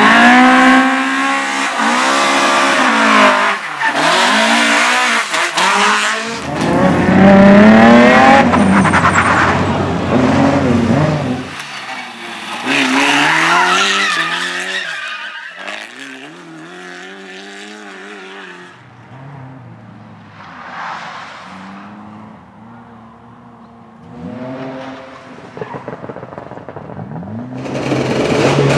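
Racing car engines revving hard as cars go past, their pitch climbing and dropping with throttle and gear changes, over tyre noise. It is quieter through the middle, then loud again near the end.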